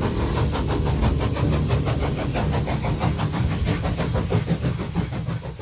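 Steam locomotive sound effect: rapid, even chuffing of an engine pulling away, fading out near the end.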